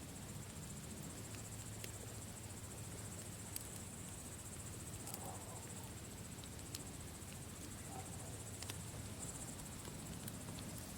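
Campfire crackling with sharp, scattered pops and snaps, over a steady high chirring of crickets and a low rumble of the fire.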